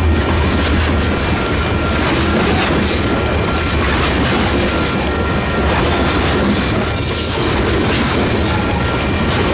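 Freight train rolling past at close range: a steady rumble of cars on the rails, with scattered wheel clacks and a faint steady high ring over it.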